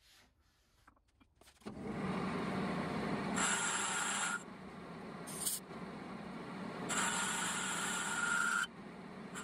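A machine tool starts up about a second and a half in and runs steadily, with two stretches of a high-pitched whine as it cuts.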